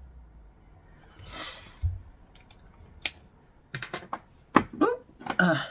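Hands handling stationery and its packaging on a table: a brief rustle, a soft thump, then a run of light clicks and taps. A short voiced sound comes near the end.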